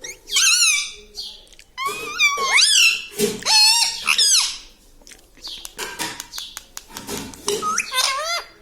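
Pet parrot giving a series of high, warbling calls in short bursts, with scattered short clicks between them.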